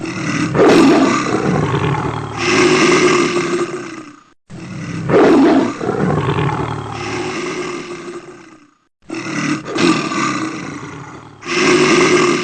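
Large animals roaring and snarling in a fight, in loud bouts of about four and a half seconds that each break off abruptly and start again, the same roar pattern repeating like a looped soundtrack.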